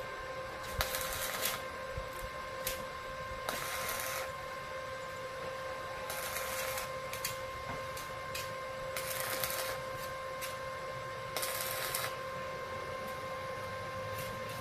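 Arc welding in short runs: about six brief bursts of crackling hiss a few seconds apart, typical of tack welds, with scattered clicks between them over a steady hum.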